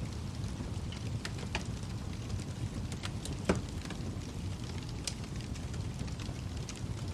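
Wood fire in a fireplace burning with a steady low rumble and scattered sharp crackles, the loudest pop about three and a half seconds in.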